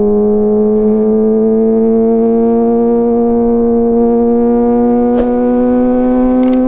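Kawasaki ZX-25R's inline-four engine running through a DX Generation GPR full-system exhaust at steady high revs while riding, its pitch creeping slowly upward. A brief click about five seconds in.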